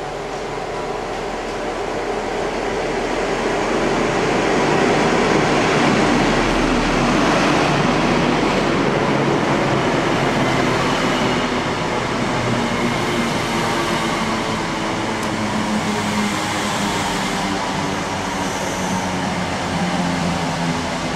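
Diesel passenger train coming in past the platform, getting louder over the first five seconds or so, then its engine note and rail noise carry on steadily.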